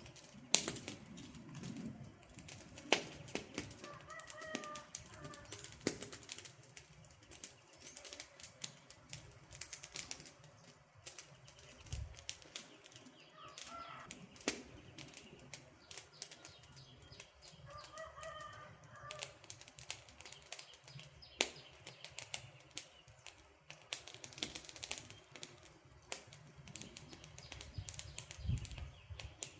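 Wood campfire crackling, with irregular sharp pops and snaps over the low rush of the flames.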